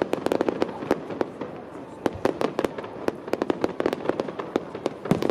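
Fireworks display: rapid clusters of sharp cracks and bangs, with short pauses between the volleys.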